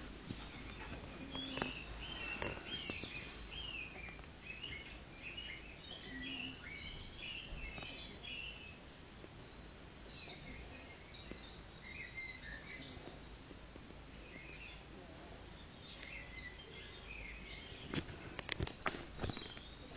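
Small birds chirping and twittering throughout, many short calls overlapping, over a low steady background rumble. Several sharp clicks and knocks come near the end.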